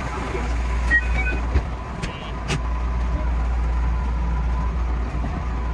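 JR West 221 series electric train running, heard from inside the driver's cab: a steady low rumble under a thin steady high tone. A few short beeps and sharp clicks come between about one and two and a half seconds in.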